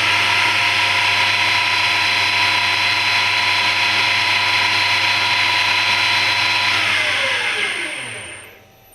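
Harrison M250 lathe running on a variable frequency drive, its motor and spindle giving a steady whine at speed. About seven seconds in the pitch glides down as the drive ramps it to a stop, and it falls almost silent at the very end.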